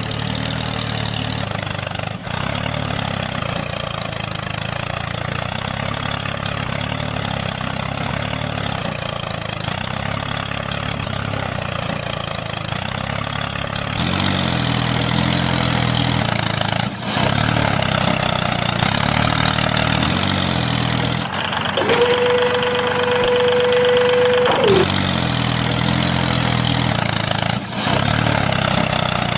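A motor running steadily with a regular chugging pulse, cut into several pieces. For about three seconds in the latter part, a single steady humming tone takes its place.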